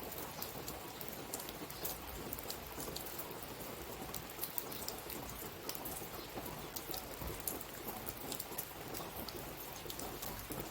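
Steady rain falling, with many small drop clicks scattered through it.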